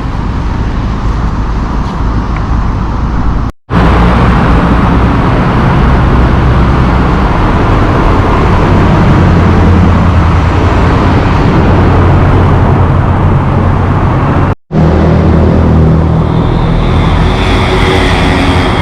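Busy city road traffic: vehicles passing steadily with a heavy low rumble. The sound cuts out briefly twice.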